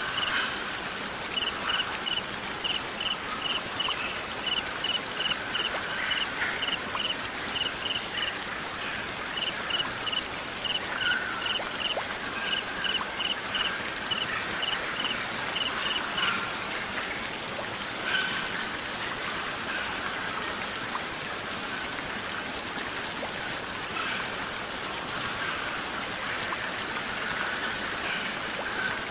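Nature-sound soundscape: a steady hiss of rain or running water, with a high chirping in even pulses, about three a second in runs with short gaps, that stops about halfway through, and scattered short bird calls.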